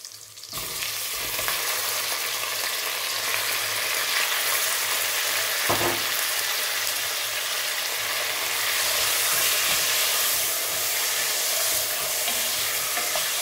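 Raw chicken pieces sizzling in hot oil. The sizzle starts suddenly about half a second in as the chicken goes into the oil, then keeps up steadily while a wooden spoon stirs the pieces. There is a single knock about six seconds in.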